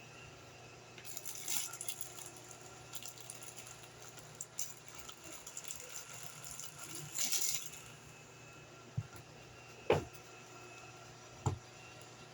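Desk handling sounds while studying: two spells of crinkly rustling with scattered light clicks, then three short knocks near the end as objects are set down.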